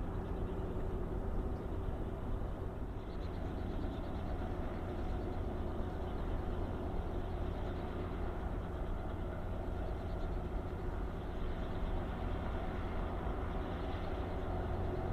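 Helicopter running steadily: a low rumble with a constant steady hum and no change in pitch.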